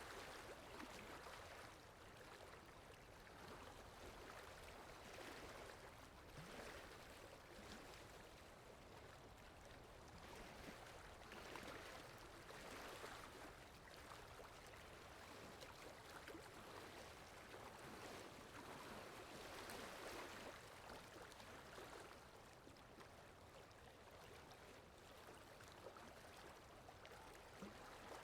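Faint, steady rain falling, an even hiss that gently swells and eases every few seconds.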